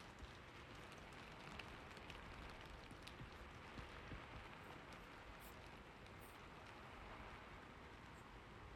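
Faint, steady rain with scattered drops ticking.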